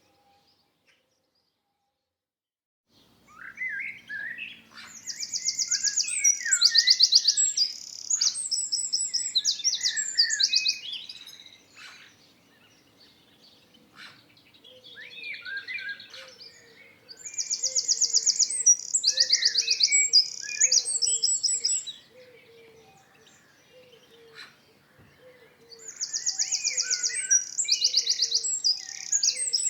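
Songbird singing loud bouts of rapid high trills and chirps, three bouts about ten seconds apart, after a few seconds of silence. A fainter, lower repeated note runs under the second half.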